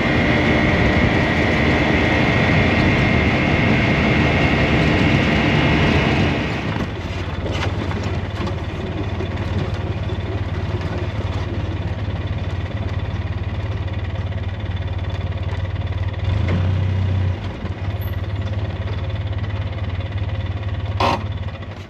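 Polaris Ranger XP 700 side-by-side's engine running: loud and harsh for the first six seconds or so, then settling into a steadier low drone that eases off near the end.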